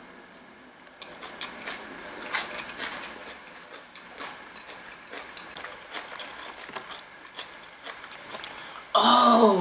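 Close-miked chewing of a mouthful of roasted vegetables and grains: wet, crackly mouth clicks, with a plastic fork clicking in a plastic takeout tray. Near the end comes a short, loud, closed-mouth "mm" that falls in pitch.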